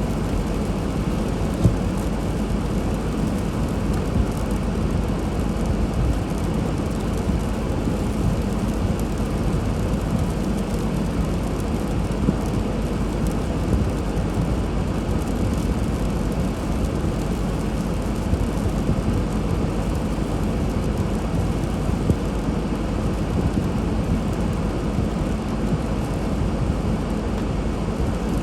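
Steady low rumble of a car driving, engine and tyre noise on a snowy road, with a couple of faint knocks.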